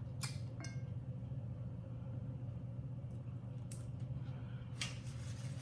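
Close-up eating sounds from chewing chicken wings: a few short, sharp mouth clicks and smacks, two near the start and a couple more later, over a steady low hum.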